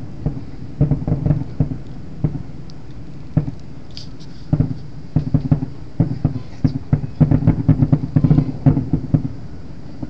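Fireworks exploding: a quick run of bangs and crackles in clusters, densest in the last few seconds.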